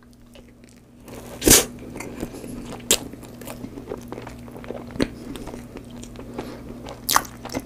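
Close-miked chewing of a mouthful of cream-filled sponge cake: wet mouth clicks and smacks, with a few louder sharp smacks spaced a second or two apart, starting about a second in. A faint steady low hum lies underneath.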